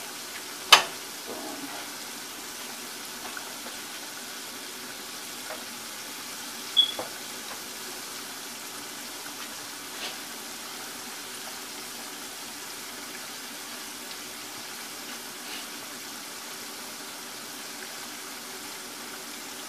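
Chicken gizzards deep-frying in a pan of oil: a steady bubbling sizzle. A sharp click about a second in and a shorter one about seven seconds in stand out above it.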